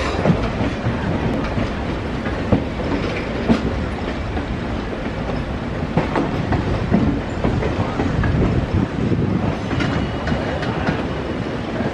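Passenger trains running on the track, heard from aboard a moving coach: a steady rumble with the clatter of wheels over rail joints and scattered sharp knocks. A faint high whine comes in briefly near the end.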